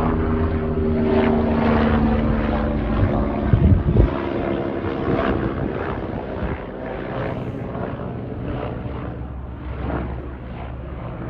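Leonardo AW109SP GrandNew twin-engine helicopter flying, its rotor chop and turbine whine slowly getting fainter as it moves away. There are a few thumps about four seconds in.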